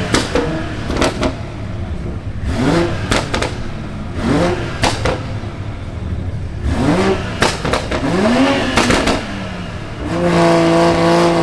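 A car engine revved in repeated short blips, each rise in pitch followed by sharp exhaust pops and crackles as it drops off. Near the end it is held at a steady high rev.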